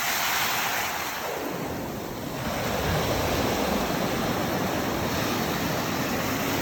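Ocean surf: waves rushing and breaking in slow swells.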